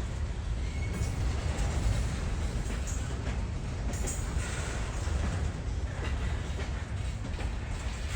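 A train rolling past, its wheels rumbling steadily on the rails.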